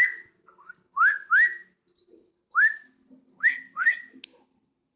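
Six short whistles. Each one slides quickly up and then holds briefly at the top, coming in an uneven run with two pairs in quick succession.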